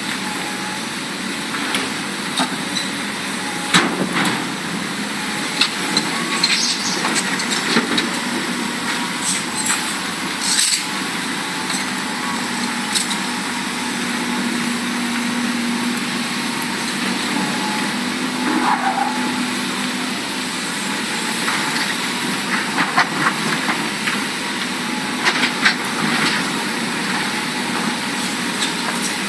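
Large Hitachi Zaxis hydraulic excavator working, its diesel engine running steadily, with scattered sharp knocks and clanks throughout. A steady low hum holds for several seconds around the middle.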